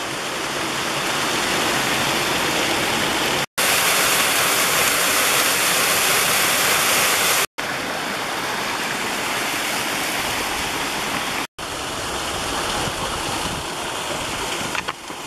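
Water pouring down a waterfall in a wadi swollen by rain: a steady, loud rushing. It comes in a few takes joined by brief silent cuts about every four seconds.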